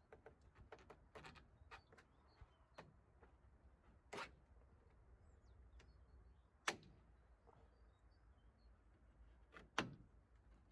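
Sparse light clicks and knocks of gutter parts being handled and fitted, with three sharper knocks about four, six and a half and ten seconds in.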